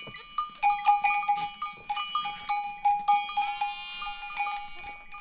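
Metal livestock bells on sheep and goats ringing, with many irregular, overlapping strikes at a few fixed pitches.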